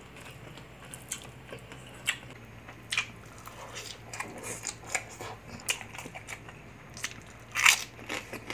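Close-miked mouth sounds of a person chewing fried food, with scattered sharp crunches and wet clicks and a louder crunch near the end, over a steady low hum.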